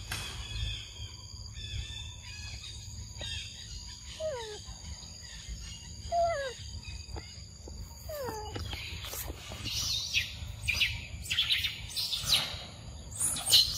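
Forest birds calling: a whistled call that falls in pitch, repeated three times about two seconds apart, then busier high chirping in the last few seconds, over a steady thin high hiss.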